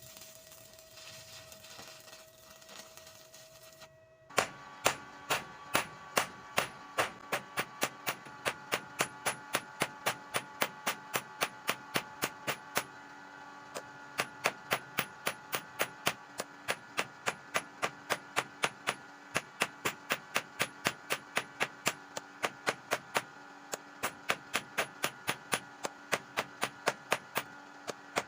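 Hammer striking metal in a steady rhythm of about three blows a second, each blow ringing, starting about four seconds in and broken by two short pauses. A faint steady hum before the hammering begins.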